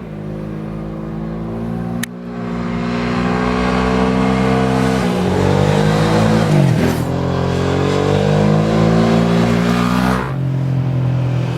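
Honda XRV750 Africa Twin's V-twin engine running through its exhaust: after a click about two seconds in it gets louder with the note slowly climbing, dips briefly in pitch and recovers around the middle, then eases back near the end.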